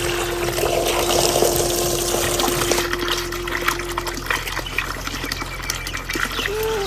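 Rainwater splashing and dripping, a steady hiss of water with many small drip ticks. A single held musical note sounds for the first four seconds or so, then stops.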